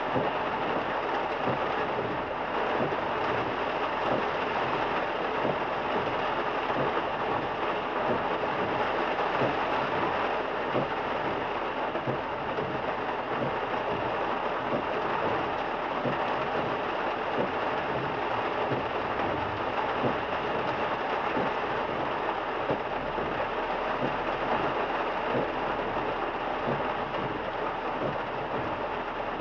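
Heavy rain drumming steadily on a moving car, with the car's road noise underneath.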